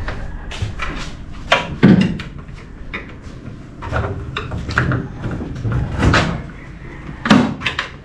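A run of clunks and knocks from the body of a 1962 Chevrolet Impala being handled, the loudest about two seconds in and again near the end.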